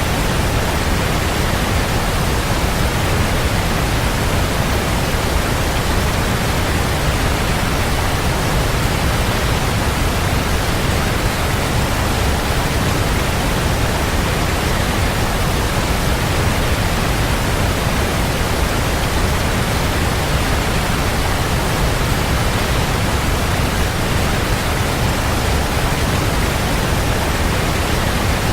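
Waterfall: a steady, even rush of falling water, full in the low end, with no distinct splashes or changes.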